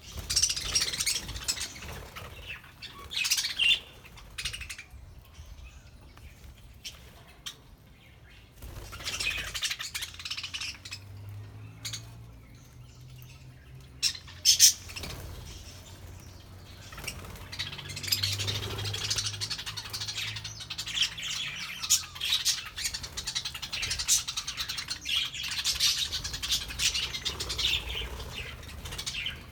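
A flock of budgerigars chattering and chirping in bursts, with a lull partway through. A couple of sharp taps come near the middle.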